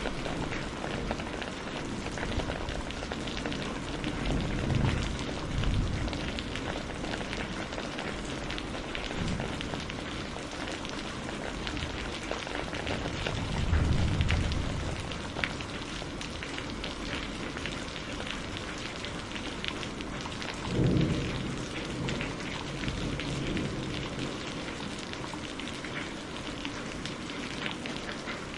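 Steady rain falling on a surface, many separate drops audible as fine ticks, with three short low rumbles spread through it.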